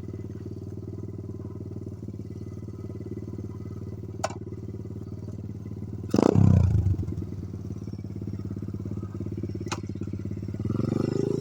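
Coolster 125 pit bike's single-cylinder four-stroke engine running at a steady pitch, with a sudden loud surge about six seconds in that dies away within a second. Two faint clicks, and the engine note rises again near the end.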